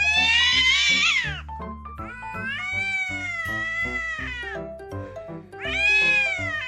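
A cat meowing three times in long, drawn-out calls, each rising and then falling in pitch, over background music.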